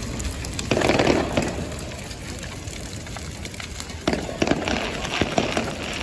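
Fireworks crackling and popping in two bursts of rapid clicks, one about a second in and a longer one from about four seconds, over steady outdoor background noise.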